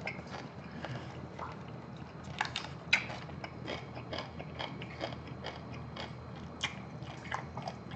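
Close-miked chewing of a mouthful of agujjim, spicy braised monkfish with bean sprouts: irregular wet clicks and crunches, with a louder crunch about three seconds in.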